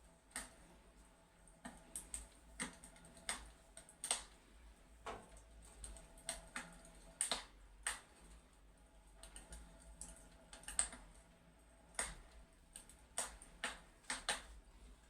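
Fireplace crackling: irregular sharp pops and snaps of varying loudness, a few each second at uneven gaps, over a faint steady background.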